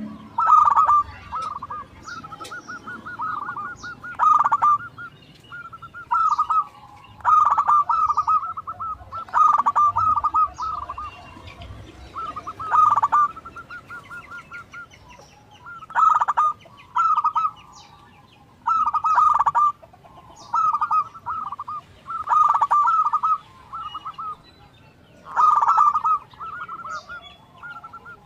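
Zebra doves (perkutut) singing vigorously: bursts of rapid staccato cooing notes that repeat every one to three seconds. Short high chirps sound faintly among them.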